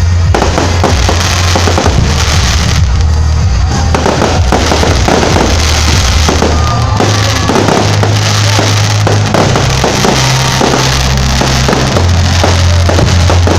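Fireworks bursting and crackling in rapid succession over loud music with a heavy bass line.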